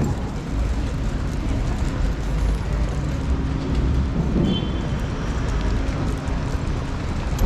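Steady low rumble of vehicle noise with a faint steady hum.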